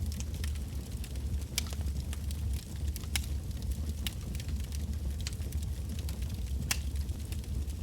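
Wood bonfire burning: irregular sharp crackles and pops of the burning logs over a steady low rumble of the flames, with a few louder pops here and there.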